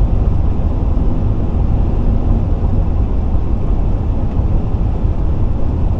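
Steady road and tyre rumble of a car driving at highway speed, heard from inside the cabin.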